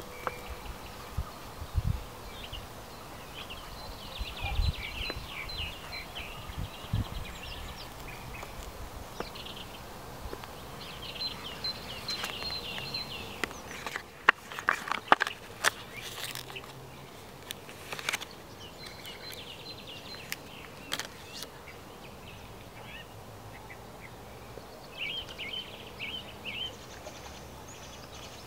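Birds chirping and chattering in short repeated bursts, with a handful of sharp clicks about halfway through.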